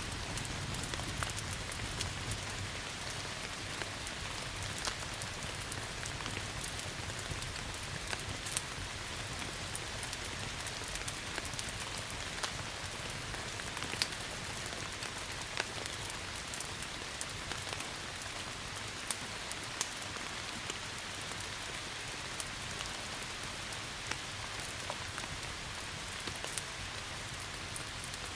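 Steady rain hissing, with many scattered sharp pops and ticks from a crackling wood fire.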